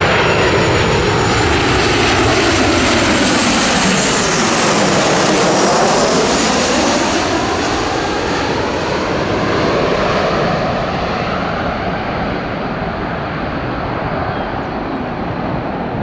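Airliner passing close, its engine noise loudest about five seconds in, then sinking in pitch and fading as it moves away.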